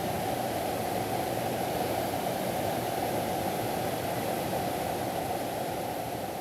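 Steady rushing of a mountain valley stream, an even unbroken water noise that begins to fade slightly near the end.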